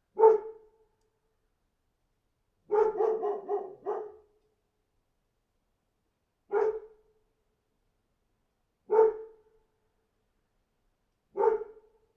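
A dog barking: one bark, then a quick run of four or five barks, then three single barks spaced about two and a half seconds apart, with silence between.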